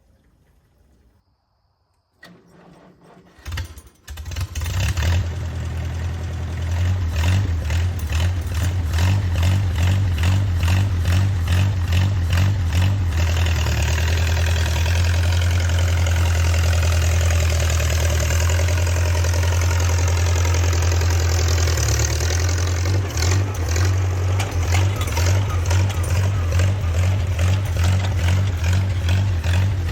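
Gasoline engine of a 1950s micro bulldozer starting about three to four seconds in, then running steadily with a deep, even firing beat. From about two-thirds of the way on its note becomes choppier and less even.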